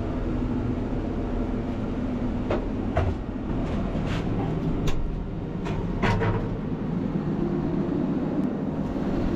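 A Bergmann C912s tracked dump truck's engine running steadily, with a handful of sharp knocks and clanks over it, about one a second in the middle stretch.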